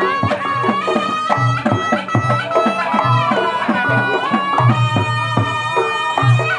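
Reog Ponorogo gamelan accompaniment: a slompret, the Javanese double-reed shawm, plays a held melody that steps from note to note over a steady beat of drums with deep low strokes.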